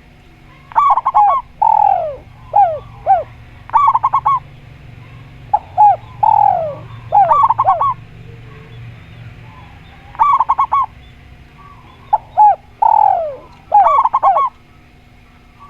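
Spotted dove and zebra dove cooing back and forth. Groups of short, quick coos alternate with longer notes that slide downward in pitch, repeating every couple of seconds.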